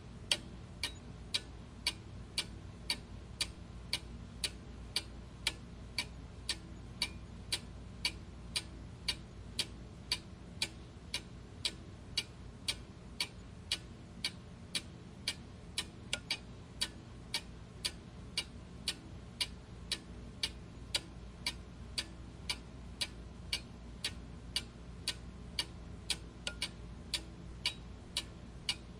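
A clock ticking steadily, with sharp, evenly spaced ticks just under two a second, over a faint low hum.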